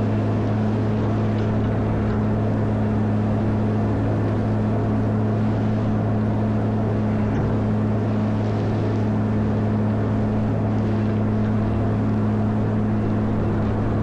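Caterpillar 140M motor grader's diesel engine running at a steady speed, a constant low hum that holds the same pitch throughout.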